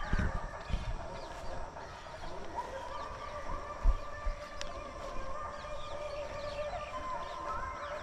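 Many birds calling at once: short chirps over a few longer, steadier calls, with a few low thumps, the loudest about four seconds in.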